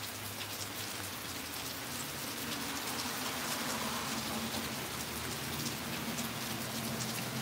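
Steady rain falling, with many close raindrops ticking, and a car passing on the wet street about four seconds in, its tyres hissing through the water.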